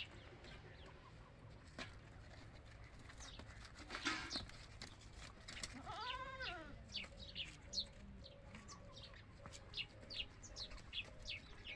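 A goat bleats once, a short rising-then-falling call about six seconds in, among many short, high, falling bird chirps.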